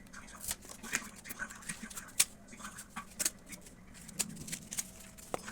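Irregular light clicks and taps of small objects being handled, a dozen or so sharp ticks spread unevenly, over a faint steady hum.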